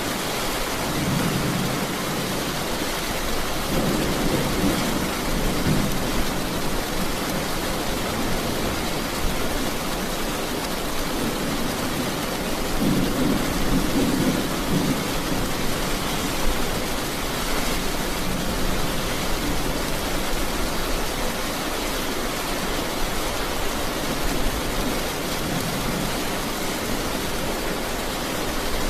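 Steady rain, an even hiss, with several low rumbles of thunder that swell and fade at intervals.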